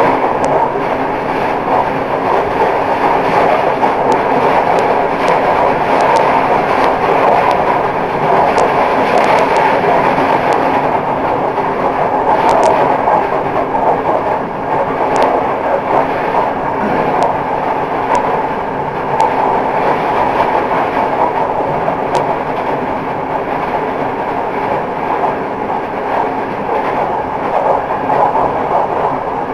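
Passenger train running at speed, heard from its last carriage: a steady rolling rumble of wheels on rail, with a few light sharp clicks.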